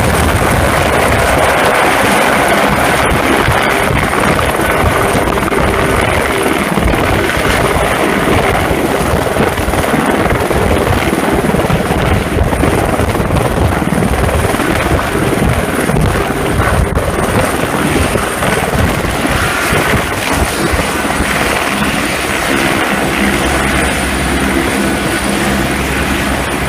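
Helicopter running close by: loud, steady rotor and engine noise with a faint high whine.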